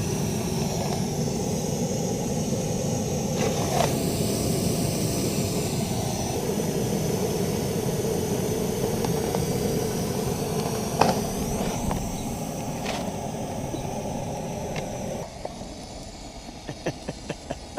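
Steady vehicle engine and road noise, as heard from inside a moving car. About fifteen seconds in it cuts off suddenly and a quick run of sharp clicks follows.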